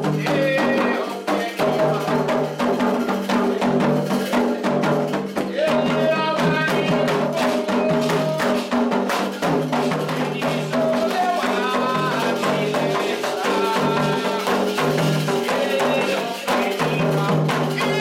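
Candomblé toque: atabaque hand drums played in a fast, driving rhythm with a rattling percussion part, under voices singing a chant.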